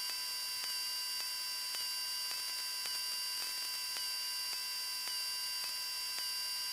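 Electrical hiss and hum on a wired aircraft intercom audio feed, with several steady faint tones and a soft tick about twice a second; no engine noise comes through while the intercom is squelched between transmissions.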